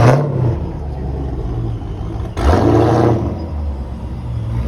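Car engine running with a deep, steady rumble, blipped twice: once at the start and again about two and a half seconds in.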